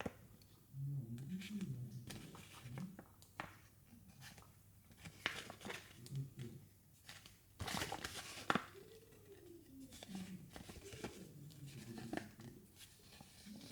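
Hands handling small plastic toy pieces and packaging: scattered light clicks and taps, with crinkling and tearing of wrappers and a louder flurry of handling about eight seconds in.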